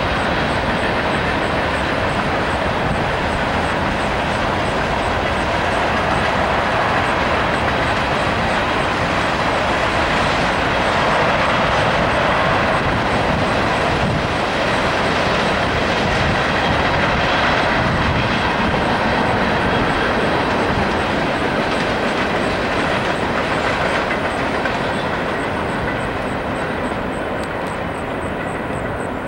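Freight cars of a mixed freight train rolling past: a steady rumble and rattle of steel wheels on rail, growing a little quieter near the end.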